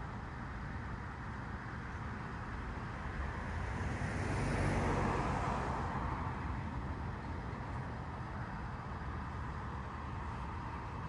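A car drives past on the street, growing louder to a peak about five seconds in and then fading, over a steady low rumble of traffic.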